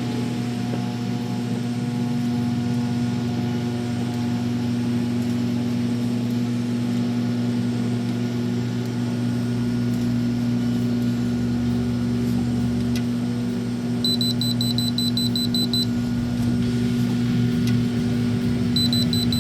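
Microwave oven running with a steady electrical hum and fan noise. About two-thirds of the way in, a rapid run of high electronic beeps lasts about two seconds, and it starts again near the end.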